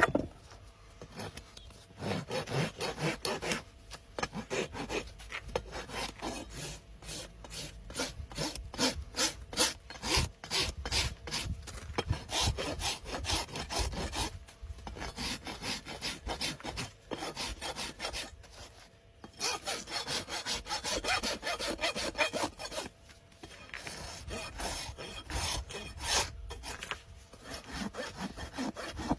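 Farrier's rasp filing a horse's hoof in quick repeated strokes, in several runs broken by short pauses.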